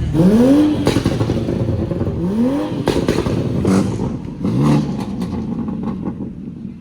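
Car engine accelerating hard through the gears: the engine note climbs and levels off three times, about two seconds apart, with sharp cracks between the shifts, then fades as the car moves away.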